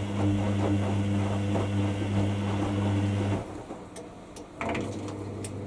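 Hoover WDYNS654D washer dryer running with a steady low electric hum that cuts off abruptly about three and a half seconds in. About a second later there is a short knock, and a quieter hum starts up.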